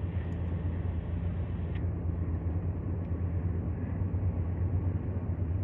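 Mixed freight train running past at about 50 mph: a steady low rumble with a deep, even engine drone.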